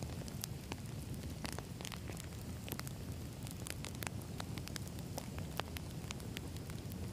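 Campfire of burning firewood logs crackling, with irregular sharp pops several times a second over a steady low rumble of the flames.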